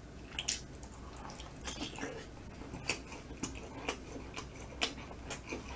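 A mouth chewing smoked chicken up close: irregular wet clicks and smacks, a few a second.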